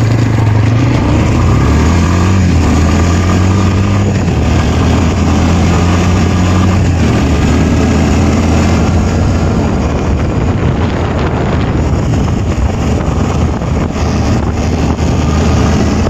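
Honda Recon 250 ATV's engine running while the quad is ridden. The engine note shifts in pitch several times in the first seven seconds, and heavy wind noise on the microphone grows louder toward the end.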